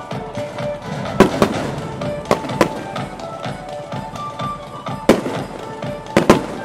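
Fireworks going off in a series of sharp bangs, several of them in quick pairs, over music.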